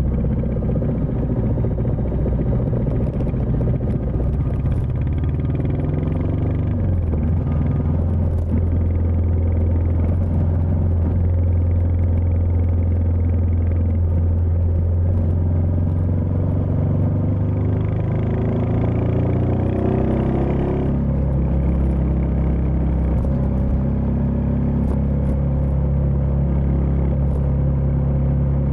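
Royal Enfield Meteor 350's 349 cc single-cylinder engine running as the bike is ridden. Its pitch climbs steadily for a few seconds in the second half, then drops sharply about 21 seconds in, as with an upshift, and holds steady after.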